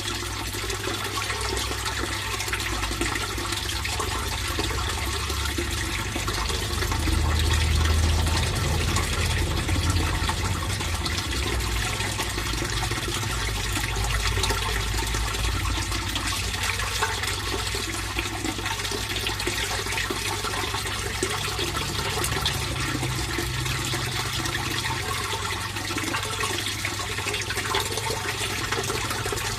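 Water flowing steadily into a fish pond, a continuous splashing, trickling noise with a low rumble underneath that swells a little about seven seconds in.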